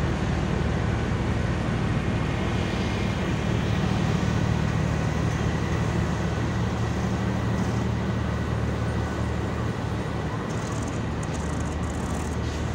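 Departing passenger train's coaches rolling past with a steady rumble. Over it is a low, steady hum from the power van's diesel generator, which fades away after about nine seconds.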